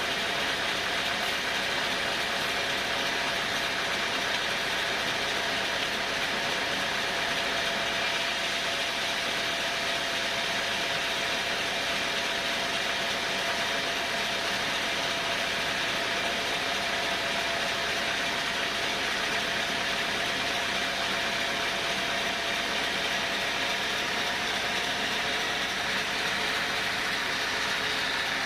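Sawmill machinery running steadily, an even mechanical drone with a constant whine.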